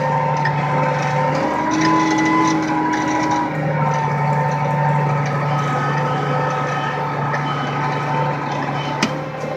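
Case 7220 tractor's diesel engine running steadily under load, its tone shifting a little about one and a half and three and a half seconds in. There is a single click near the end.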